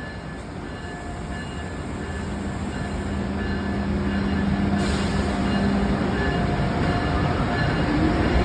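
Amtrak Acela Express train pulling out, its rumble and wheel noise growing steadily louder, with a steady hum for a few seconds in the middle.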